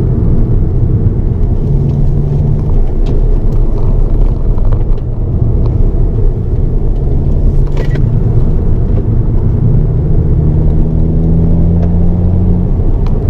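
Hyundai Elantra N's turbocharged four-cylinder engine and road noise heard from inside the cabin as the car is driven at pace on a race circuit, the engine note shifting in pitch with throttle and speed.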